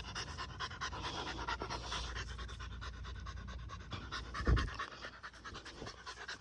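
American pit bull terrier panting rapidly and steadily while out on a leash walk. A low thump comes about four and a half seconds in.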